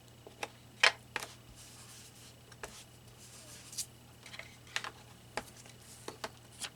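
Irregular light clicks and taps from paper cutouts and small craft pieces being handled and set down on a work table, about a dozen in all, the loudest about a second in.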